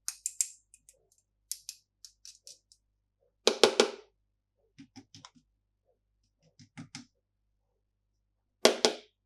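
Hands handling plastic candy packaging: a run of sharp clicks and crackles, with two louder clattering spells, about three and a half seconds in and near the end.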